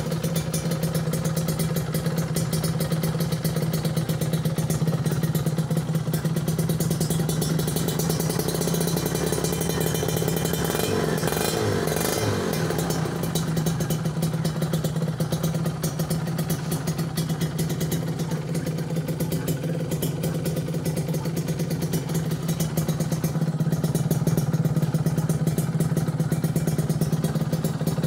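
Kawasaki Ninja 150's single-cylinder two-stroke engine idling steadily through a custom handmade stainless-steel racing exhaust, which gives the crisp, jingling 'tring ting ting' two-stroke note.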